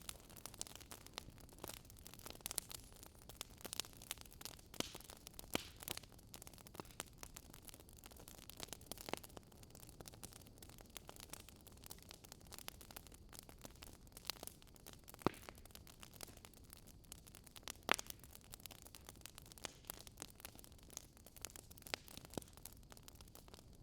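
Campfire crackling: burning firewood gives off irregular sharp pops and snaps of varying loudness over a soft steady hiss.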